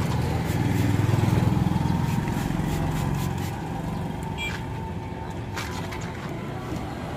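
A motorcycle engine running steadily, loudest in the first few seconds and then fading, with a few short hissing spritzes from a hand spray bottle partway through.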